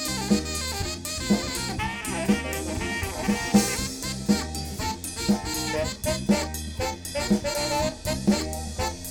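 Live band playing an instrumental passage: horn lines, most likely saxophone, over drum kit and bass, with a steady beat marked by a strong drum hit about once a second.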